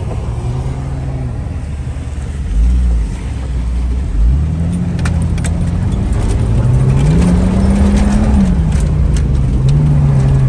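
Jeep engine heard from inside the cabin, pulling along a dirt track, its pitch rising as it accelerates about two-thirds of the way through and dropping back near the end. Two heavy thumps come a few seconds in, and rattling clicks follow over the rough ground.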